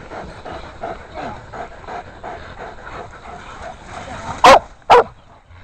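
Hunting dogs barking repeatedly, about three barks a second, then two very loud barks close by about four and a half seconds in.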